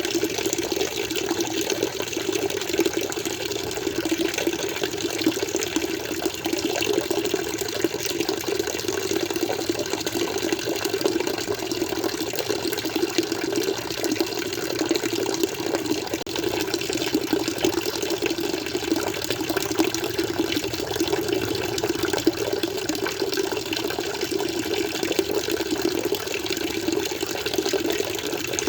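Flowing water running and splashing steadily, an even continuous rush with no change.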